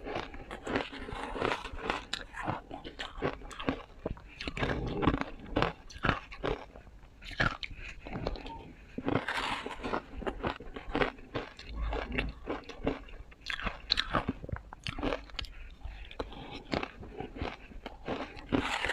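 Ice being bitten and chewed, with close, irregular crunching and crackling many times a second.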